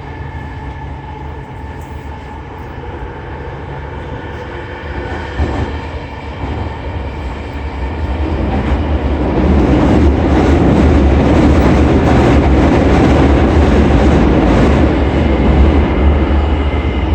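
Running noise inside a JR East E231-800 series commuter train in a subway tunnel: a steady rumble and wheel-on-rail noise with faint steady motor tones, growing much louder about nine seconds in and staying loud.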